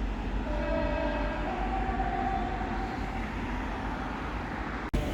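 Train horn sounding two held notes, a lower note then a higher one, over the steady low rumble of the train's diesel engine. The sound cuts off abruptly near the end.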